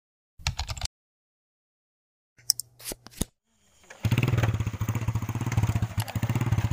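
A few short clicks first, then from about four seconds in a motorcycle engine running with a steady, even putter.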